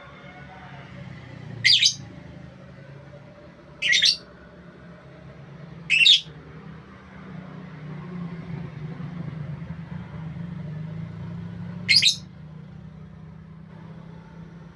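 A bird giving short, sharp, high calls, three about two seconds apart and a fourth after a longer pause, over a steady low hum.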